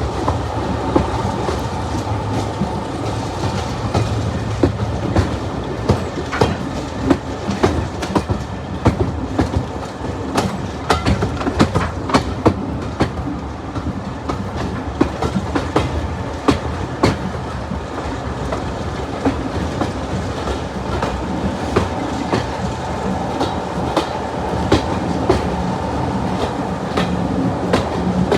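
Passenger train running along the line, heard from on board: a steady low rumble with irregular sharp clacks as the wheels pass over rail joints.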